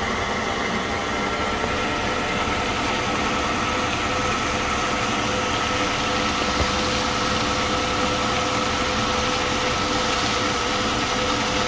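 Kitchen range hood exhaust fan running steadily: an even rushing hum with a faint steady whine in it, over the stove as greens cook.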